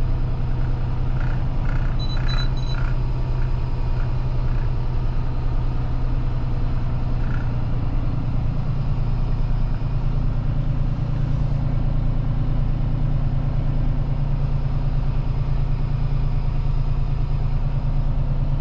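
Semi truck's diesel engine running steadily with a low, even drone. A few short high beeps sound about two seconds in.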